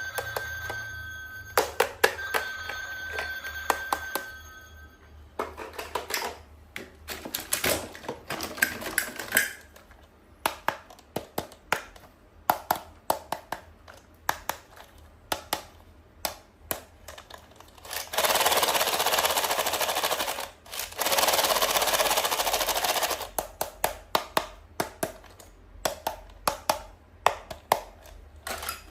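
Toys and packaging being handled: many separate sharp plastic clicks and taps, with a steady high electronic toy tone over the first four seconds. Later come two long stretches of rustling noise, one after the other.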